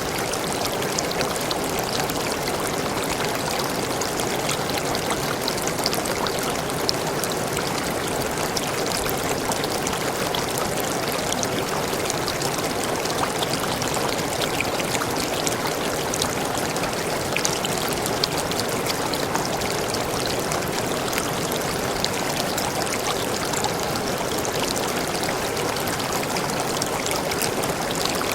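Forest waterfall, water falling and splashing steadily without letup.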